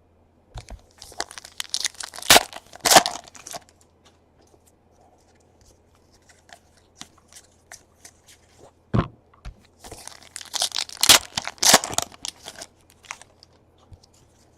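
Foil wrapper of a Donruss baseball card pack being torn open and crinkled, in two bouts separated by several seconds, with a few sharp taps between them.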